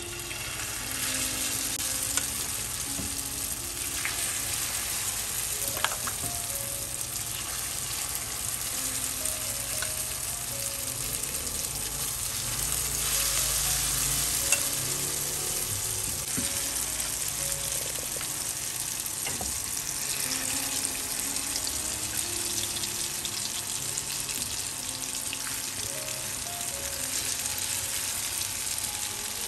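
Shredded vegetables and egg batter sizzling in hot oil in a frying pan, with now and then a click of a spoon against the pan as the mixture is spread and stirred.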